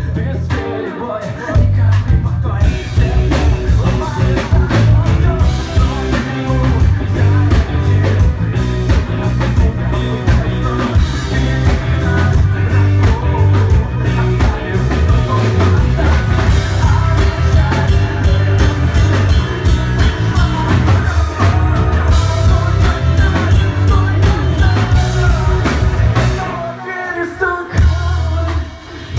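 Rock band playing live with a voice singing over heavy bass and drums; the music drops briefly near the end before picking up again.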